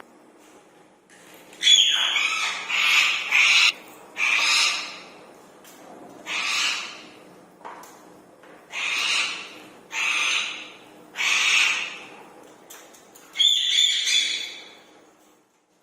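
Rose-ringed parakeet calling: a series of about nine loud, shrill squawks, each lasting well under a second to about a second, with short irregular pauses between them.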